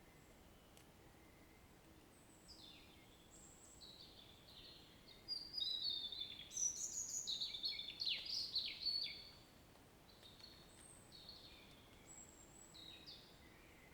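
Songbirds singing: scattered high calls, then a loud burst of rapid, downward-sliding notes in the middle, then quieter calls again, over a faint steady background hiss.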